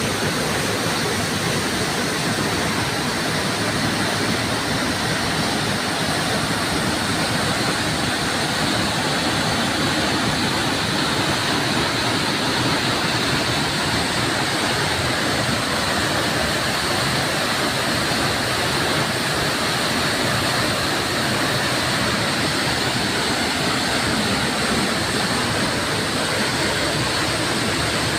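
Waterfall pouring and splashing in a steady, unbroken rush of falling water.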